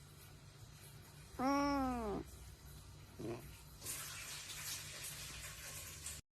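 A domestic cat meowing: one long call about a second and a half in that drops in pitch at its end, then a faint short call a moment later. A soft, even hissing noise follows for the last two seconds or so.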